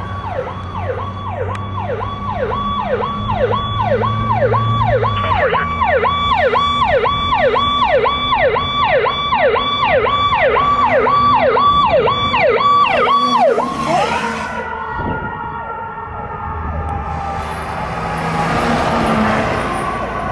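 Fire truck siren sounding in a fast yelp, about two cycles a second, over the drone of the truck's engine. A little after halfway the yelp stops and gives way to a slower falling siren tone as a rush of road and engine noise builds near the end.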